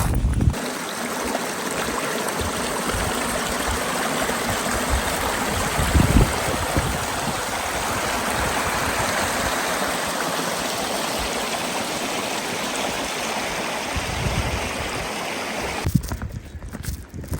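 Steady rush of running water, as from a stream, cutting in just after the start and stopping abruptly near the end, with a brief low thump about six seconds in.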